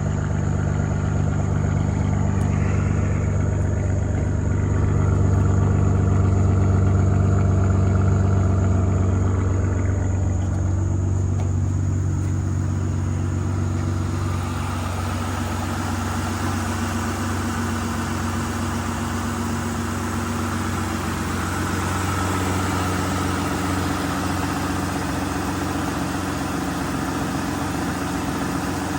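2012 Aston Martin Virage's 6.0-litre V12 idling steadily after a cold start. About halfway through, the sound turns brighter, with more high-pitched noise.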